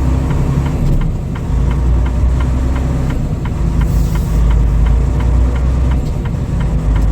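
Semi truck's diesel engine running with a steady low rumble, with a light ticking about four times a second.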